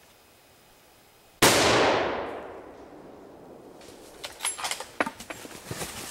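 A single hunting rifle shot: one sharp crack with an echo that rolls away over about a second and a half. From about four seconds in come irregular quick clicks and knocks.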